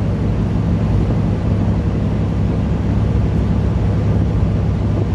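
Semi-truck's diesel engine pulling steadily up a long grade in eighth gear at middle revs, heard from inside the cab as a steady low drone. The engine is held back rather than floored to keep the coolant temperature down on the climb.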